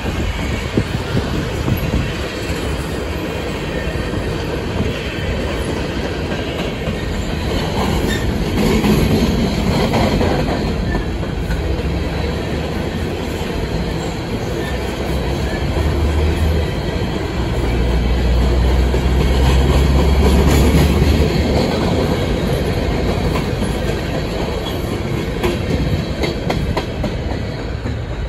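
Empty coal hopper cars of a freight train rolling past at speed: a steady rumble of steel wheels on rail with a continuous clatter of wheel ticks. It swells louder twice, about a third of the way in and again past the middle.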